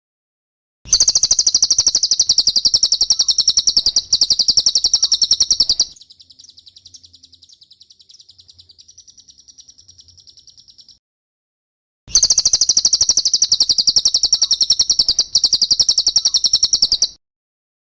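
Cililin song from a bird-training recording: a very fast, high-pitched rattling trill. It comes in two loud phrases of about five seconds each, with a softer trill between them and a pause of about a second before the second loud phrase.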